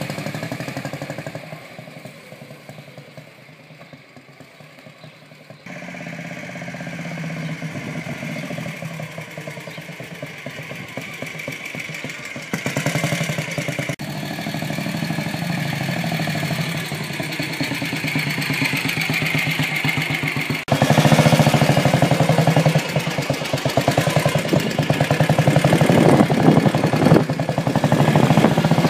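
Junak M10 motorcycle's 350 cc single-cylinder four-stroke engine running. It fades as the bike rides away, then grows louder as it comes near again. For the last third it is heard close and loud from the rider's seat.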